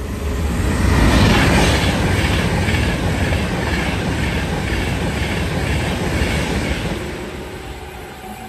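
Avanti West Coast express train passing through the station at speed, a loud rush of wheels on rail with a rhythmic clatter about twice a second. It is loudest about a second in and fades as the train draws away near the end.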